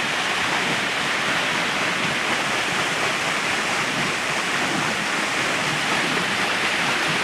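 Steady rush of flowing water driving a small homemade water-wheel generator, an even hiss with no change in level.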